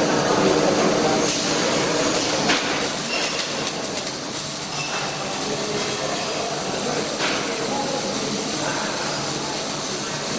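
Electric welding arc crackling and hissing steadily, with a few faint clicks.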